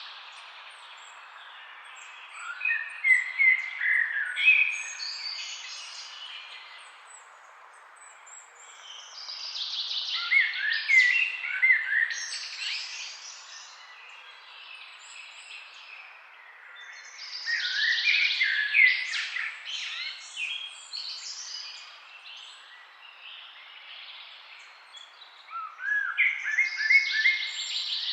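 Songbirds chirping in the trees, in four busy bouts of quick, high chirps a few seconds each, with quieter gaps between, over a steady low background hiss.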